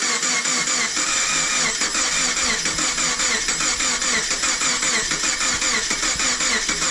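Subaru boxer engine being cranked over by its starter motor, turning over steadily and rhythmically without catching, after decarbonizing cleaner was soaked in its cylinders. It cranks slowly, which the owner puts down to a possibly weak battery.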